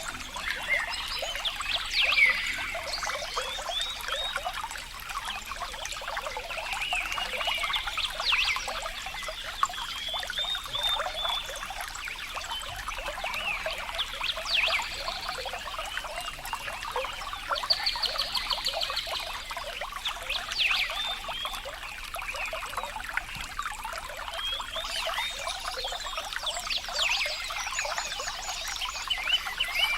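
Water trickling and babbling steadily, with short high chirping animal calls every few seconds above it.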